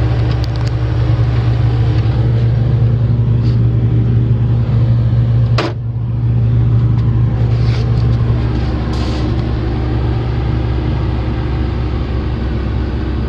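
Komatsu PC450LC-8 excavator's six-cylinder diesel engine running at a steady speed, a constant low hum. There is a single sharp click about five and a half seconds in.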